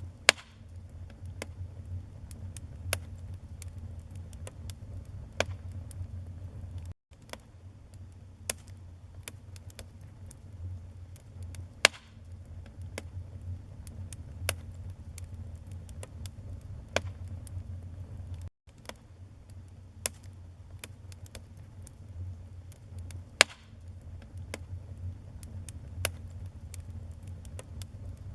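Wood fire burning in a fireplace: a steady low rumble of flame with frequent sharp crackles and pops, a few of them much louder than the rest.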